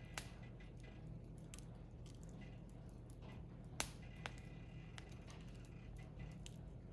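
Wood fire crackling faintly, with scattered small pops and one sharper pop a little under four seconds in.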